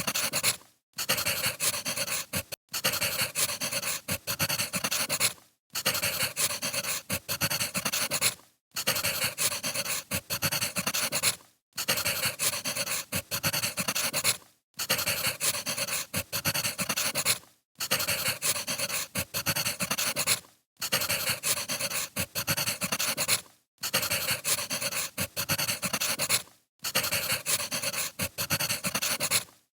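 Wood fire crackling and popping, a steady bed of crackle cut by a short silent gap about every three seconds.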